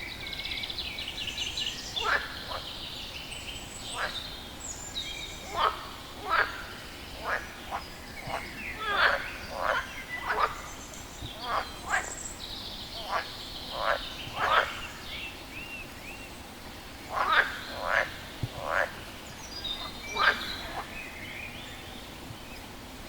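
A frog croaking in short, separate calls, irregularly spaced at roughly one a second and sometimes in quick pairs or threes. Fainter high-pitched chirping runs behind it, most noticeable in the first couple of seconds.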